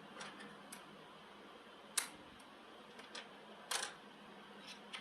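A few sharp clicks and taps of small hard parts being handled during wheel fitting on a model vehicle. The loudest is about two seconds in, with a slightly longer knock just before four seconds and fainter ticks between.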